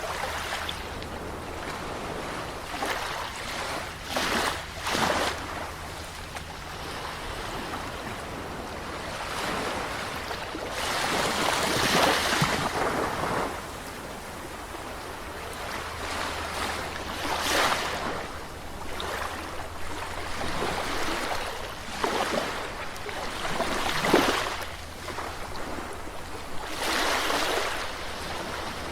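Sea waves breaking and washing up a shore in repeated surges, each swelling and then falling away. The loudest wave comes about twelve seconds in, with another sharp one about two-thirds of the way through, over a steady low rumble.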